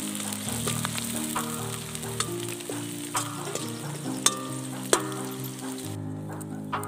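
Sliced shallots frying in hot oil in a cast iron wok, a steady sizzle, with a metal ladle stirring and clicking against the pan a few times. The sizzle drops away near the end.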